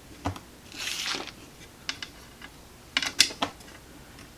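Scattered sharp clicks and taps of small hand tools and wire being handled on a tube radio chassis, with a short rustle about a second in and a cluster of clicks near the end.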